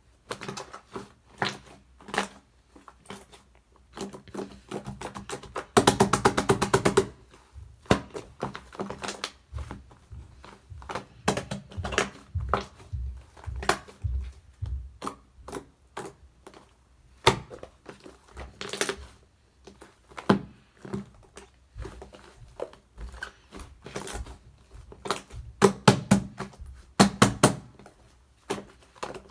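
Shaving-foam slime being squeezed and poked by hand, giving irregular popping and crackling clicks, with a fast run of crackles about six seconds in and again near the end.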